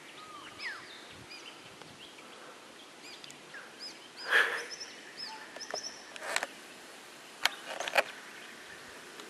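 Muscovy ducklings peeping: many short, high chirps scattered throughout. A few short, sharp noises break in, the loudest about halfway through and the others near the end.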